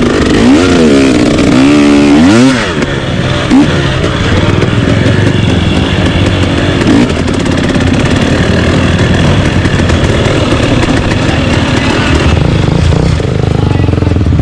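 Off-road trail motorcycle engine revving up and down quickly several times over the first couple of seconds, then running steadily under throttle.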